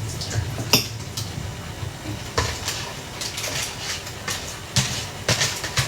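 A utensil scraping and clinking against a pot and plate as reheated pasta is served out, in scattered knocks and scrapes over a low steady hum.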